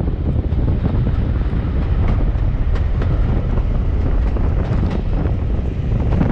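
Wind buffeting the microphone at an open carriage window of a moving steam-hauled train, over the steady low rumble of the train running on the track, with occasional clicks.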